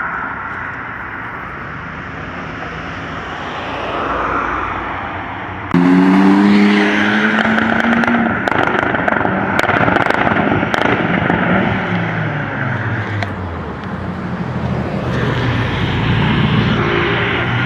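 Car engines accelerating hard past the listener: about six seconds in a loud engine revs up with climbing pitch, with a few sharp cracks from the exhaust, then the pitch falls away as it passes, and another engine revs up near the end.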